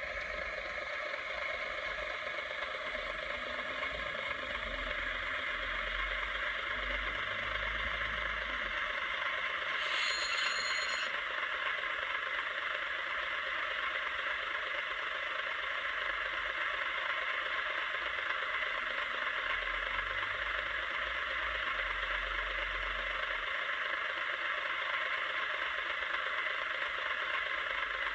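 N gauge model train running on the layout's track: the steady running noise of its small electric motor and wheels on the rails, with a brief sharper sound about ten seconds in.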